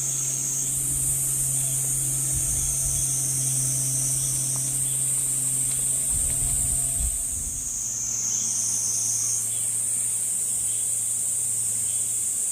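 Insects shrilling steadily in a high, continuous drone whose pitch steps up and down a few times, over a low steady hum and a low rumble that fades out about seven and a half seconds in.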